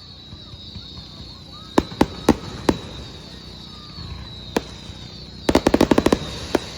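Fireworks exploding: a few separate bangs, a single bang, then a rapid string of about ten bangs near the end.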